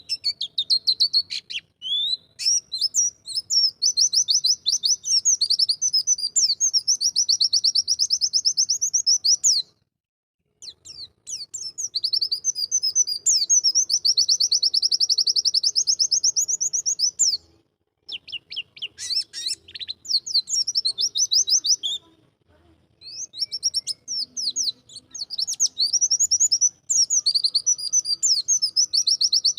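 A white-eye (pleci) singing long, fast, high-pitched warbling phrases, broken by three short pauses.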